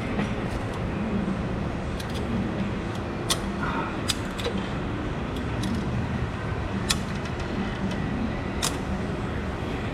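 Steady background noise with a handful of short, sharp metallic clicks at irregular spacing, from work to pull a misaligned suspension control arm into line.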